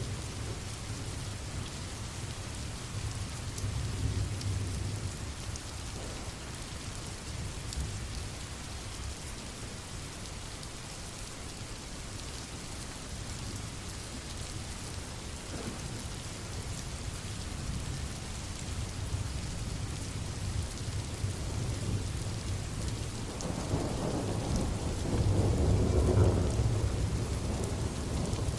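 Steady rain with rolling thunder. A low rumble swells in the last few seconds and is the loudest part.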